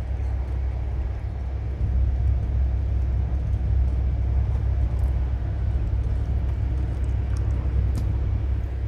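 Steady low rumble of a moving passenger train heard from inside the carriage, growing a little louder about two seconds in.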